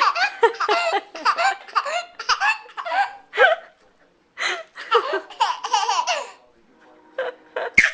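Baby laughing in quick repeated bursts, in two long runs with a short pause between them, then a few short sounds and a sharp knock near the end.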